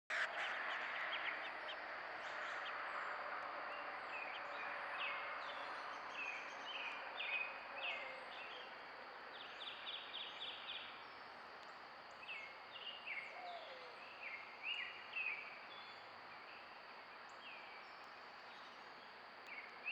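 Small songbirds chirping: many short, high notes, some sliding downward, scattered throughout, over a steady background hiss that fades over the first eight seconds or so.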